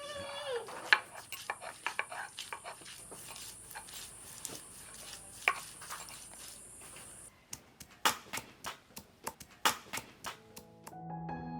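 Scattered clinks and knocks of cooking utensils and pots, over a steady high hiss that cuts off about seven seconds in. A cat's meow trails off at the start, and soft piano music comes in near the end.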